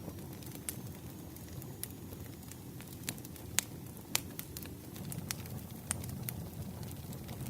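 Campfire burning over a steady low rush, with wood crackling in scattered sharp pops. The loudest pops come about three and a half and four seconds in.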